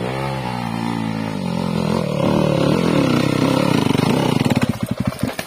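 Trail motorcycle engine revving on a climb, its pitch rising and falling with the throttle. Near the end it drops to a slow, even chugging before cutting off.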